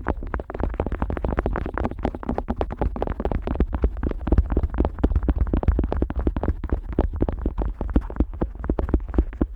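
An otoscope rubbed and tapped against the silicone outer ear of a Neumann KU100 dummy-head microphone, heard right at the ear: rapid, irregular strokes over a heavy low rumble.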